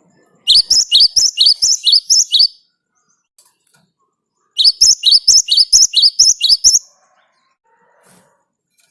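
Great tit (gelatik batu) singing: two loud bouts of a fast, high, repeated two-note phrase, each lasting about two seconds, with a pause of about two seconds between them.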